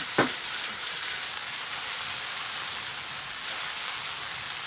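Quartered cherry tomatoes sizzling steadily in hot olive oil in a frying pan, with a short knock at the very start.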